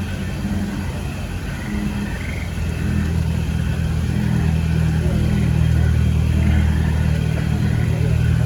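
Deep, steady rumbling from the Mirage volcano show, swelling louder through the middle of the stretch.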